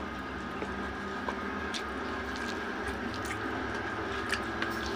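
A person chewing a mouthful of noodles eaten by hand, with a few short, wet mouth clicks, over a steady background hum.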